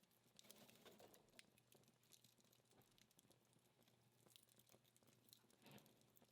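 Faint crackling of a dying wood fire: scattered small ticks and pops from the burning-down logs, with a busier flurry about a second in and a louder pop near the end.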